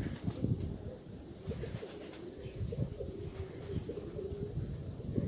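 Nikolaev pigeons cooing: a run of short, wavering low coos, over low rumbling thumps.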